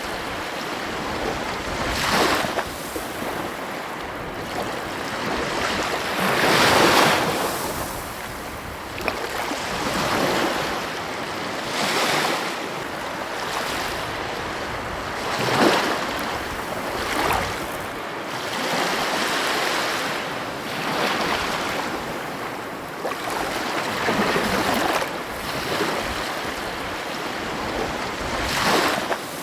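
Ocean waves washing onto a beach: a steady rush of surf that swells into a louder surge every two to three seconds.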